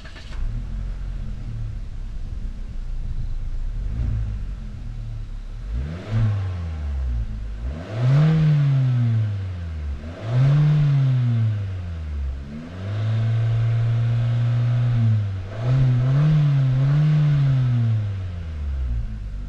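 Chery Omoda 5's 1.5-litre turbo-petrol four-cylinder running steadily at low revs, then revved up and let fall back several times from about six seconds in. One rev is held steady for about two seconds before it drops.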